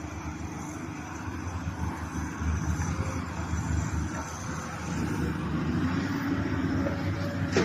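Old-model Volvo heavy truck's diesel engine running, a low rumble that grows louder as the truck comes closer.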